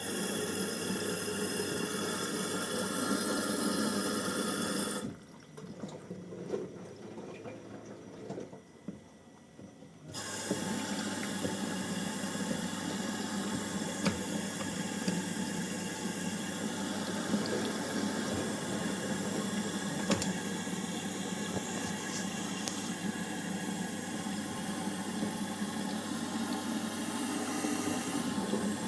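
Water running steadily, broken off for about five seconds near the start before running again.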